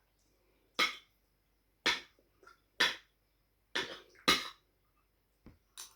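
A person coughing: five short coughs about a second apart, the last two close together.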